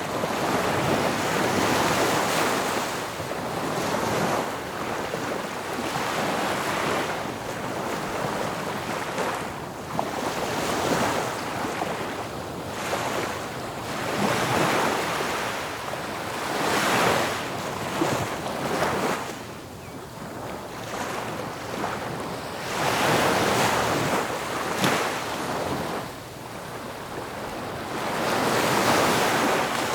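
Ocean surf: waves breaking and washing in, the rush of water swelling and falling away every few seconds.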